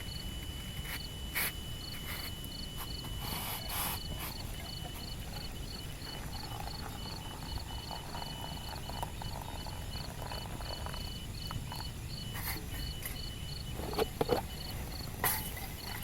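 Insects chirping: a steady pulsed chirp about three times a second and a continuous high trill, over a low outdoor rumble. A few short knocks and clatters, the loudest near the end.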